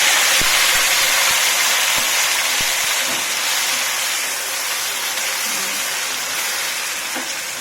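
Curd-marinated chicken sizzling hard as it hits hot ghee. The hiss is loudest at first and slowly dies down, with a few light knocks of the pieces in the pan.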